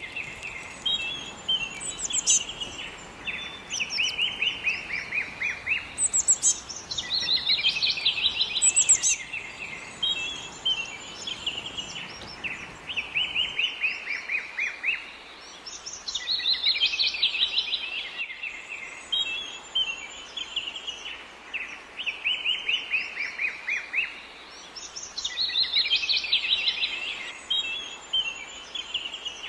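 Songbirds singing: runs of rapid chirps and trills in phrases a few seconds long, repeating with short pauses between them.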